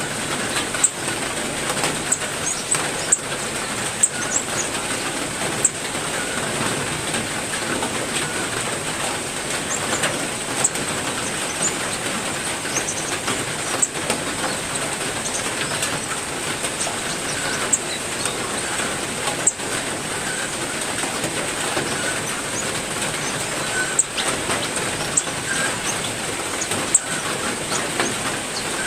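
Steady heavy rain with loud, irregular drip ticks every second or two, and short bird chirps scattered through it.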